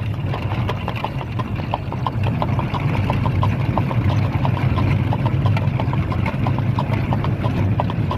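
Horse's hooves clip-clopping on a hard surface in an even run, about four or five strikes a second, over a steady low rumble.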